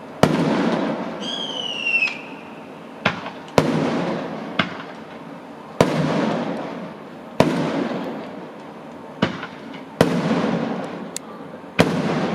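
Fireworks display: about nine sharp bangs of bursting shells at uneven intervals, each followed by a long, fading rumbling echo. A short falling whistle sounds about a second in.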